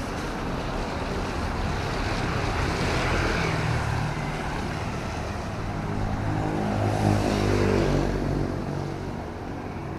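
Motor traffic passing on a wet city road in drizzling rain: engines running with a hiss of tyres and rain, swelling as a vehicle goes by about three seconds in and again, loudest, about seven seconds in.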